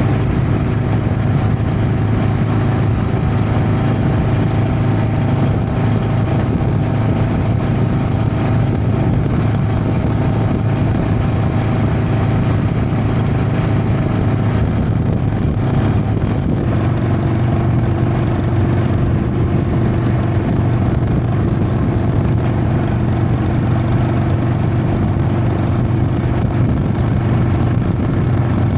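Harley-Davidson Sportster XLH's air-cooled V-twin running steadily under way, its engine note shifting slightly a little past halfway.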